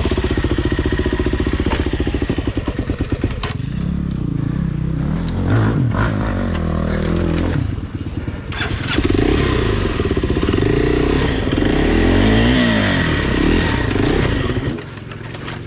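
Dirt bike engine running, its revs rising and falling, with a few knocks and clatters mixed in; near the end it drops to a quieter, steadier run.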